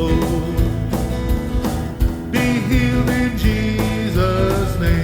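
Live church worship band playing a slow praise song, with a steady drum beat, bass and guitar.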